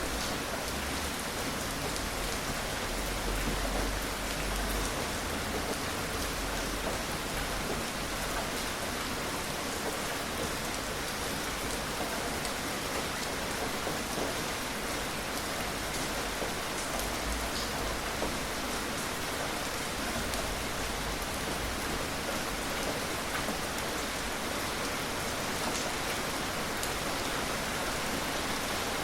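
Steady rain falling, an even hiss of drops on surfaces, with a faint low rumble twice.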